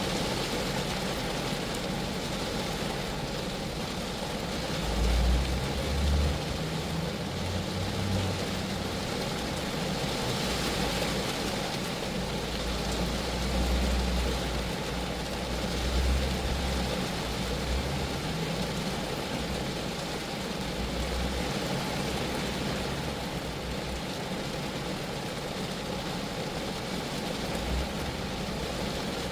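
Steady rain falling on a Geo Metro car, an even hiss of drops on the body, with a low rumble that swells now and then underneath.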